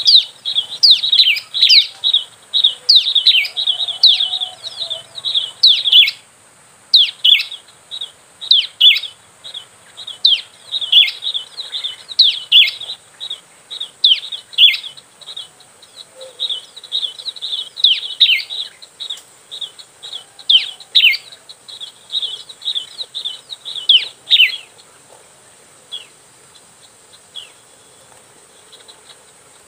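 Prinia calling: a fast, loud run of sharp, downward-slurred chirps that thins out to a few scattered notes in the last few seconds.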